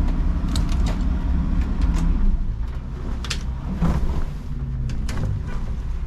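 A motor vehicle engine running with a low rumble, its pitch shifting a little a few times, with scattered clicks and knocks.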